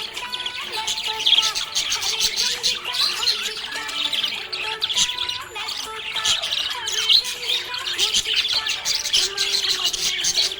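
Budgies chattering and chirping in a dense, unbroken warble of quick high chirps and squawks, with a few longer whistled notes.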